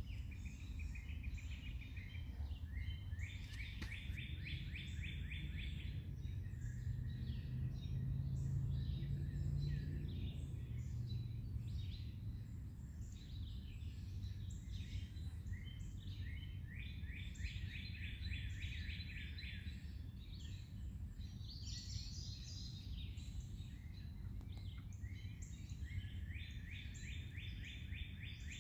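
Outdoor birdsong: a rapid, evenly pulsed trill of two to three seconds repeats several times, with scattered short high chirps from other birds, over a steady low rumble.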